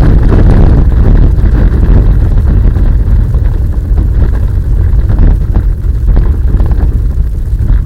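Traxxas Rustler RC stadium truck driving, heard from a camera mounted on the truck: a loud, steady, distorted rumble of wind buffeting and chassis vibration.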